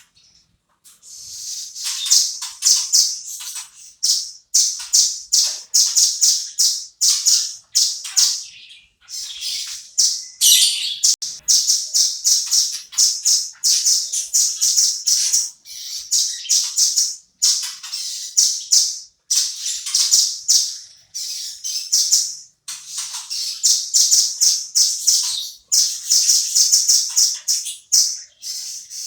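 Velvet-fronted nuthatch calling in fast runs of sharp, high chirps, in bursts of a second or two with short breaks between.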